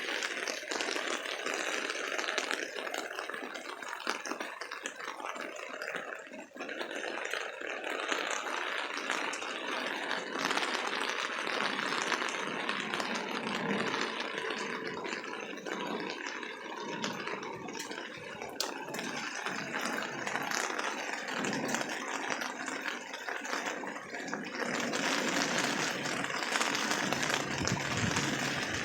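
Heavy downpour of rain: a dense, steady patter of countless drops, growing a little louder near the end.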